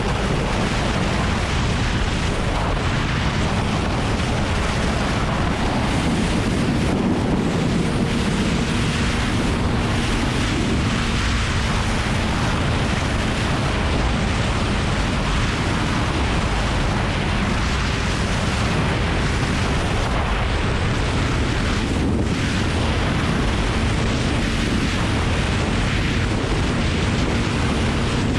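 Steady wind rush over the camera microphone of a Kawasaki Ninja ZX-9R at riding speed. The bike's inline-four engine drones faintly underneath at a fairly constant pitch.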